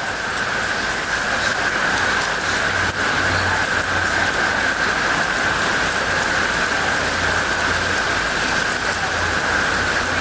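Steady rain pouring down in a rainstorm, an even hiss of drops, with a faint low rumble coming and going underneath from about three seconds in.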